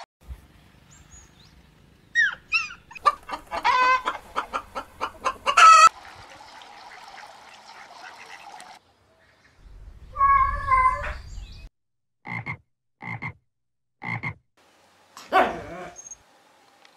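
Several short recordings of animal calls one after another: frogs croaking and chickens calling, with quiet gaps between them. Near the end come three short, evenly spaced calls about a second apart.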